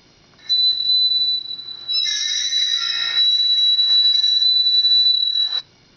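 "Metal screeching" sound effect played through an Acer Iconia Tab tablet's speakers: a steady, piercing high tone that turns harsher about two seconds in and cuts off suddenly near the end.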